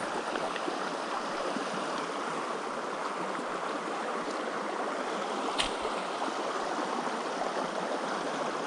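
Small creek flowing over rocks: a steady rush of water. One sharp click about five and a half seconds in.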